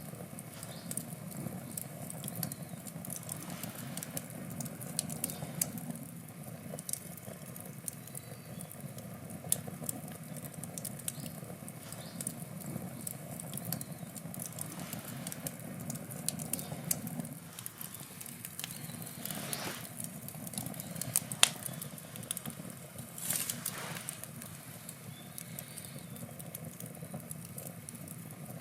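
Wood campfire burning: steady low roar of flames with many scattered sharp crackles and pops of burning wood, a few louder snaps and brief hissing flare-ups.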